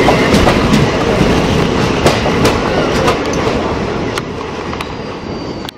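Close-passing passenger train heard from the open door of a moving train: rushing wheel and wind noise with irregular clicks of wheels over rail joints. The rush fades about four seconds in as the last coach goes by.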